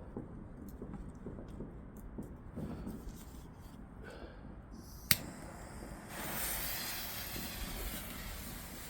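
Fireworks going off at a distance: faint crackles over a low rumble, one sharp bang about five seconds in, then a steady rushing hiss that slowly fades.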